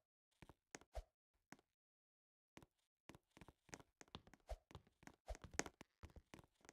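Near silence with faint, scattered knocks and thumps, sparse at first and coming more often after about halfway.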